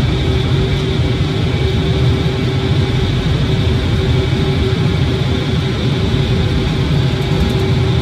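C-17 transport plane's turbofan jet engines running steadily: a loud, even rumble with a steady high whine on top.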